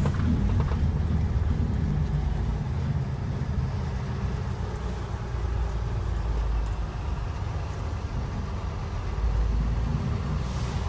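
Skid-training truck driving, its engine and road noise making a steady low rumble.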